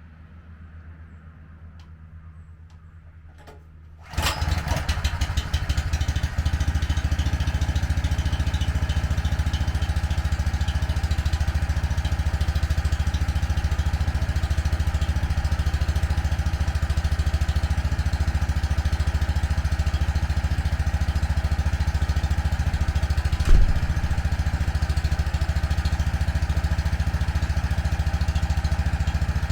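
Small gas engine of a pressure washer starting suddenly about four seconds in, then running steadily at speed with a fast pulsing beat, with one short knock about two-thirds of the way through.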